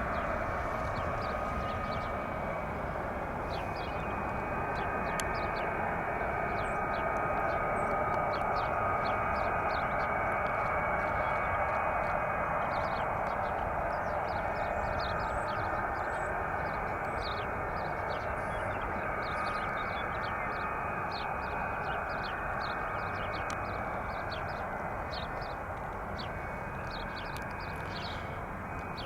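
Boeing 707-368C's Pratt & Whitney JT3D turbofan engines idling after start, a steady jet whine and rush with held tones in it. Faint short high ticks come and go over it.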